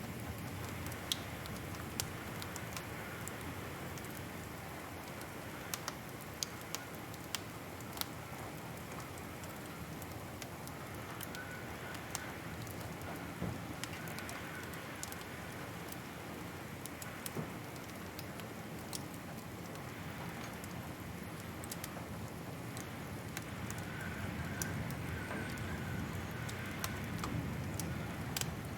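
Fireplace wood fire crackling: irregular sharp pops and snaps over a steady low rush of flame, with a faint hiss that comes and goes twice.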